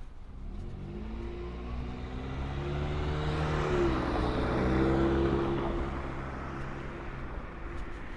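A car drives past. Its engine and tyre noise grow louder, peak about halfway through and fade away, and the engine's pitch drops as it goes by.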